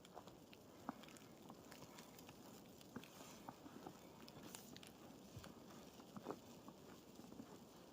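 Faint footsteps in snow: soft crunching with scattered small ticks and crackles, irregular rather than a steady stride.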